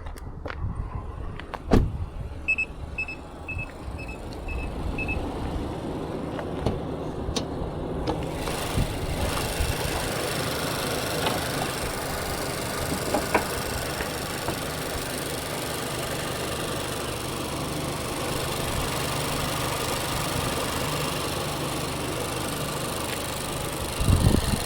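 Inside a 2025 Mazda CX-5's cabin: a few clicks and a run of six short electronic chime beeps, then from about eight seconds in a steady running noise from the car, engine and road.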